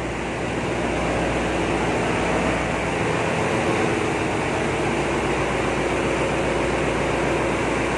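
Steady machinery din in a crude oil tanker's engine room: running machinery and ventilation making a loud, even noise with several steady humming tones and no let-up.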